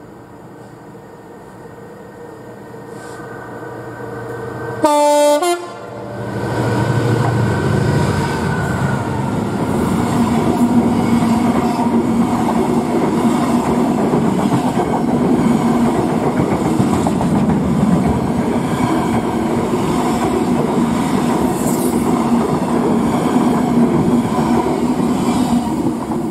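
A train sounds a short horn blast as it approaches, then a passenger train runs past at speed close by: loud, steady wheel-on-rail noise with a clickety-clack over the rail joints, lasting until the end.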